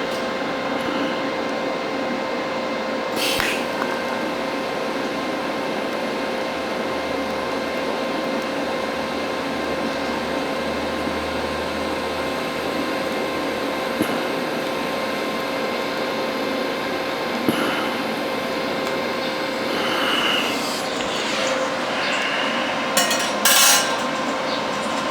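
TIG welding arc on stainless steel: a steady hiss with a faint constant hum, broken by a few sharp clicks, two of them close together near the end.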